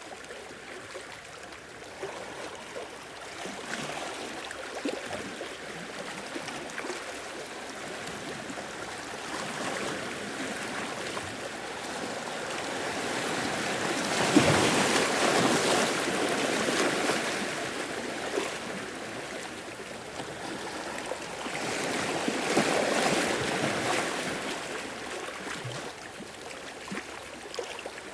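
Sea waves washing into a rocky shore, with small splashes and trickles between the swells. Two larger waves surge in, the bigger one about halfway through and another a few seconds later.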